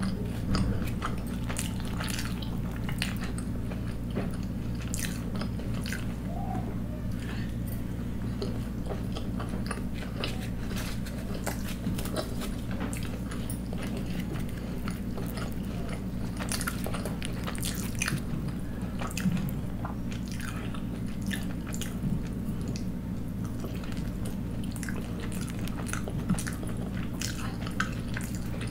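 Close-up chewing and biting of poori dipped in potato curry: many short wet mouth clicks and smacks, over a steady low hum.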